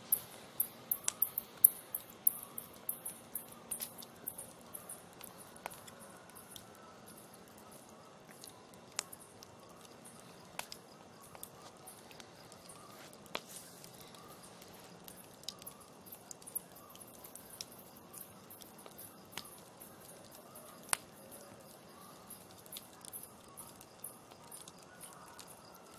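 Campfire crackling: burning wood giving off sharp snaps and pops over a low hiss. The pops come thick and fast for the first few seconds, then thin out to scattered single snaps.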